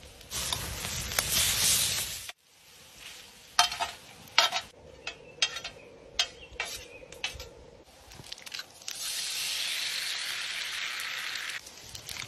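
Bacon, sausages, potatoes and eggs sizzling on a griddle plate over a campfire, in two stretches, with a run of sharp scrapes and clacks from a spatula on the plate in between.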